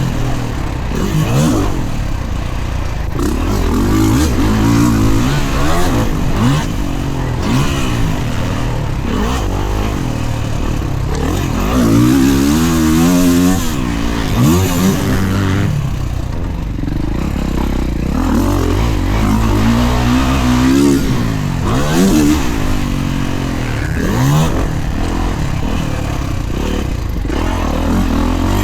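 Dirt bike engine at full throttle on a motocross track, revving up and falling back over and over as the rider shifts gears and rolls off for corners and jumps.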